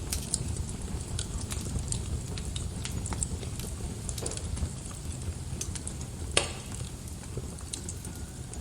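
Wood fire crackling in a fireplace: a steady low rumble of flames with scattered sharp crackles, and one louder pop about six seconds in.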